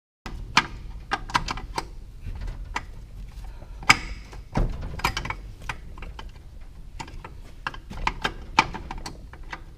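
Metal manual-gearbox parts clicking and clanking irregularly as they are worked into place by hand, with the loudest knock about four seconds in.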